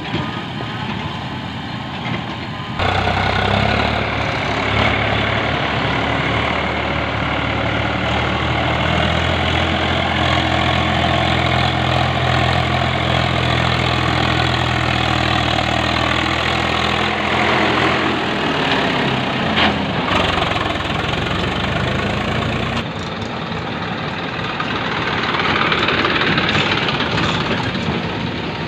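Heavy diesel engine of farm or earth-moving machinery running steadily. It gets suddenly louder about three seconds in, its pitch drops and climbs back again about two-thirds of the way through, and the level falls away again near the end.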